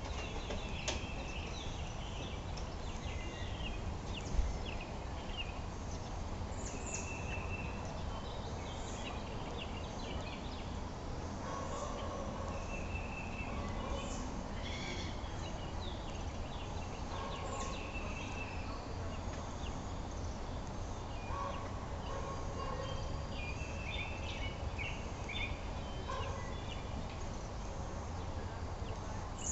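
Small birds chirping in many short, high notes scattered throughout, over a steady low rumble; a single knock about four seconds in.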